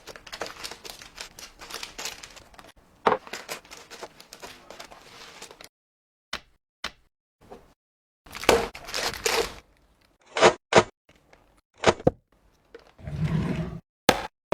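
Things being handled and set down by hand: rustling and scraping with light clicks at first, then separate sharp taps and knocks, with short bursts of crinkling and a dull thunk near the end.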